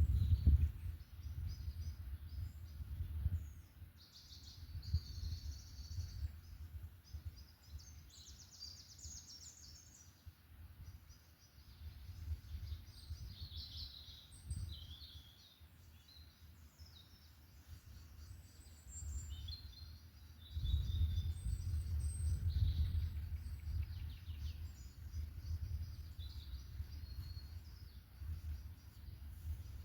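Several forest birds singing and calling, short high chirps and trills scattered throughout, over a low rumble that swells and fades and is loudest about two-thirds of the way in.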